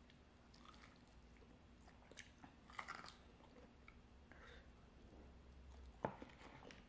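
Faint close-up mouth sounds of a person biting and chewing a fried chicken drumstick: scattered short, soft bites and chews, loudest about three seconds in, with one sharp click near the end.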